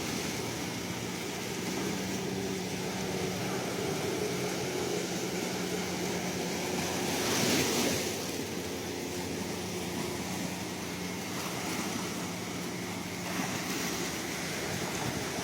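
Ocean surf washing steadily, with one wave breaking louder about halfway through.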